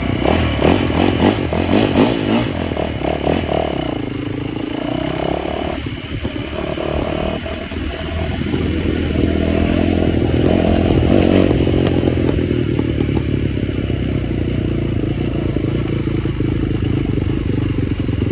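Small motorbike engine running and revving, uneven at first. A few seconds in its pitch drops and climbs back up, then it runs louder and steadier.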